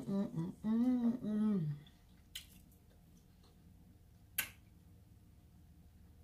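A woman's wordless vocal sound, a bending hum-like 'mmm', for about the first two seconds, then two sharp clicks about two seconds apart.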